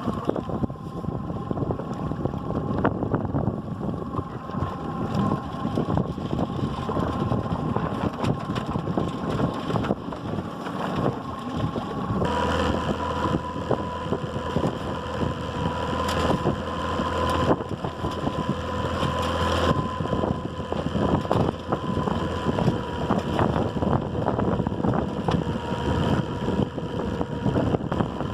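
Small sailboat underway: wind on the microphone and rushing water under a steady motor hum. The sound changes abruptly about twelve seconds in, when a deeper hum appears.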